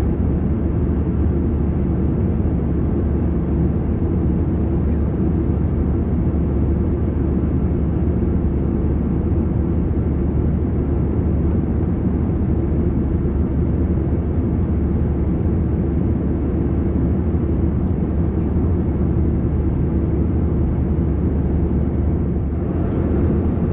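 Steady airliner cabin noise of an Airbus A321 in cruise: a constant low rush of engine and airflow noise that holds level, with a little more hiss near the end.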